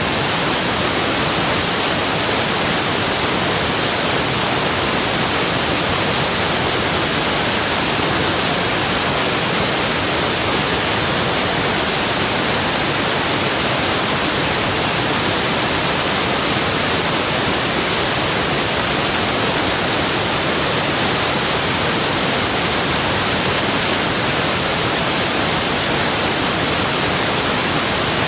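Rushing water, a steady, even hiss that does not change.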